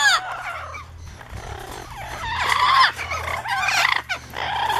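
Amazon parrots squawking and calling, harsh overlapping calls that are quieter at first and grow loud from about two seconds in; the birds are excited by the visiting parrot.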